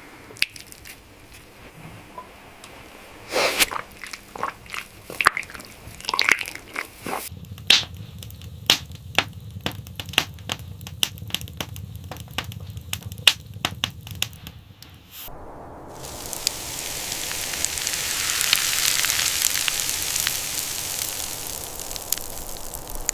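Crunching and crackling: scattered sharp crunches, then a quicker run of clicks over a low rumble that stops abruptly about two thirds of the way through. A hiss then swells up and eases off near the end.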